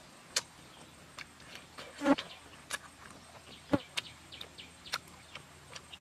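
Close-up mouth sounds of someone chewing a bite of grilled fish: scattered wet clicks and lip smacks, with two louder smacks about two seconds in and near four seconds.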